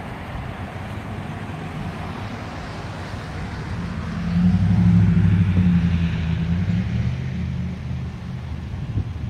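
Idling engine of a police SUV, a low steady hum that swells about four seconds in as the microphone comes close to the vehicle, then fades, over a hiss of outdoor noise.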